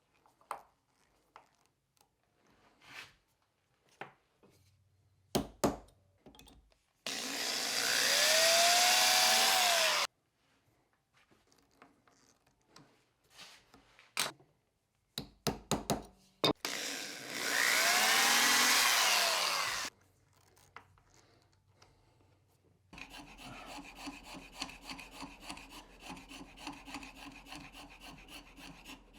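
A power drill runs twice in bursts of about three seconds, its motor pitch rising and then falling, amid light clicks of handling parts; this is screws being driven to hold the steel sole to the wooden plane body. Near the end, steady rhythmic hand-rasping strokes begin.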